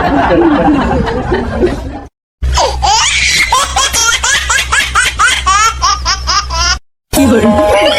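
High-pitched laughter, a rapid run of short rising squeals like a baby's laugh, cut in as a funny sound clip between brief silences. Just before it another clip of mixed voices cuts off, and a music clip starts near the end.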